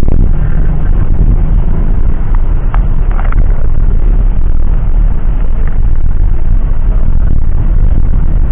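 Loud, steady low rumble of a vehicle in motion, with no clear rhythm or pitch.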